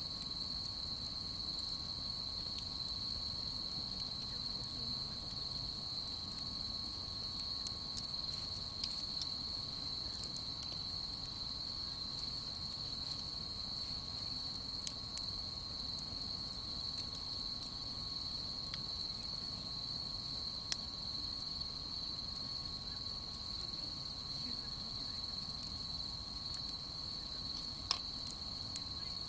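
A continuous high-pitched chorus of crickets and other autumn night insects, with a few sharp pops from a wood campfire.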